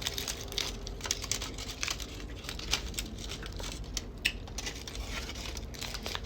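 Close-miked chewing and lip smacking while eating a taco and burrito: an irregular run of sharp, wet mouth clicks.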